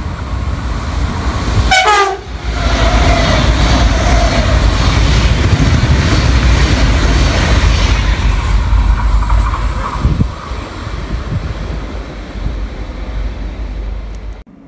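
A Renfe Rodalies electric passenger train passing through the station at speed. About two seconds in it sounds a short horn blast whose pitch drops sharply as it goes by, followed by a loud rush of the train running past. The rush eases from about ten seconds in and cuts off just before the end.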